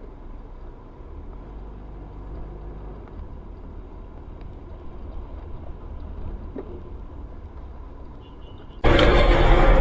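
Steady low rumble of a vehicle driving, heard from inside. About nine seconds in it cuts abruptly to much louder, fuller engine and road noise.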